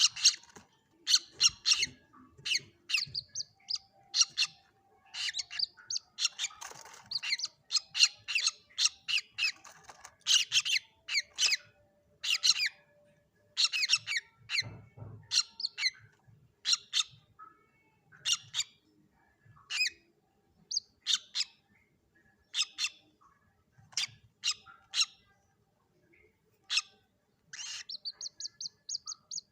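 Common moorhen chicks calling: many short, sharp, high-pitched squeaky calls in irregular runs, dense at first and more spaced out after about twenty seconds.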